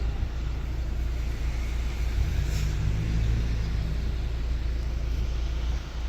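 A car driving, heard from inside: a steady low engine and road rumble, with a brief hiss about two and a half seconds in.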